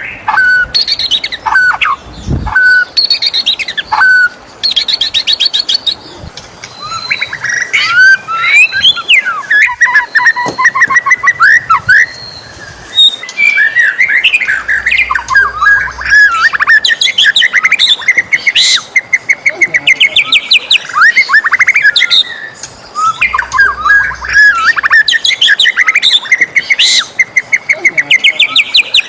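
White-rumped shama (murai batu) singing. It begins with short, separate whistled notes and buzzy phrases, then from about a quarter of the way in runs into a continuous, varied song of whistles and fast trills.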